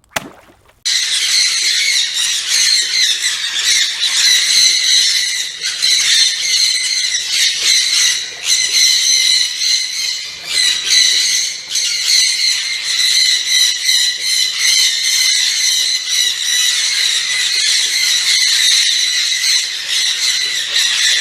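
A flock of conure parrots screeching together in a continuous, shrill, overlapping chorus that starts about a second in.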